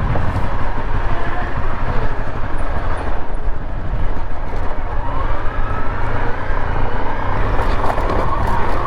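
Motorcycle ride noise: wind buffeting the microphone in a steady low rumble over the running engine of a Honda CRF 250L.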